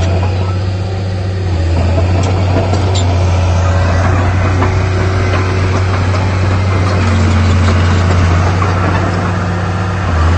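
Heavy diesel engine of earthmoving machinery running steadily, a constant low drone with no clear revving.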